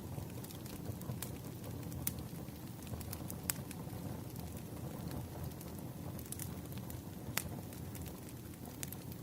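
Wood fire crackling: a steady low rumble with sharp pops scattered irregularly through it.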